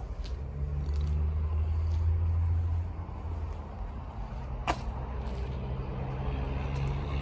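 Low rumble of a motor vehicle running nearby, louder in the first few seconds and then steadier, with one sharp click about two-thirds of the way through.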